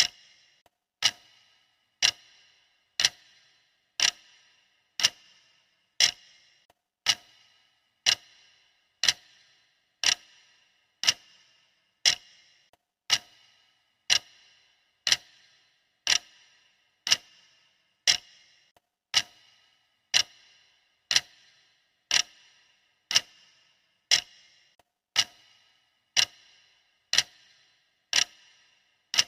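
Countdown timer's clock ticking sound: a sharp tick exactly once a second, steady and even.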